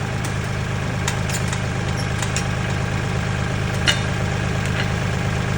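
Tractor engine idling steadily while its loader holds a load up, with a few short clicks and knocks, the sharpest about four seconds in.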